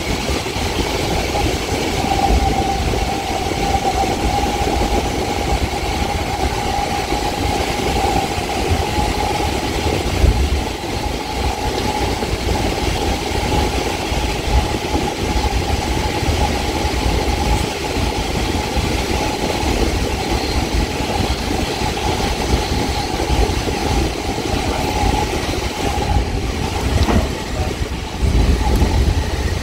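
Caltrain gallery cab car rolling through a tunnel, heard from inside the cab: a steady rumble of the train on the rails with a steady whine held through most of it. Near the end, as the train leaves the tunnel, the whine stops and the low rumble rises.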